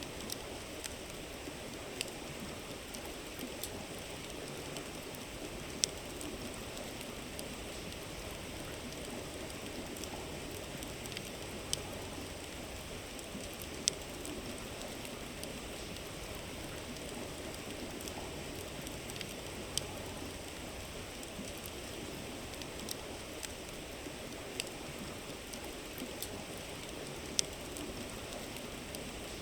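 A river babbling steadily, with a campfire crackling over it in sharp, irregular pops, a few of them louder than the rest.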